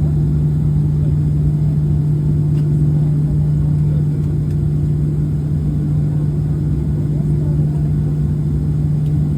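Steady low cabin drone inside a Boeing 737-800 after landing, with a strong even hum and a rumble beneath it that does not change.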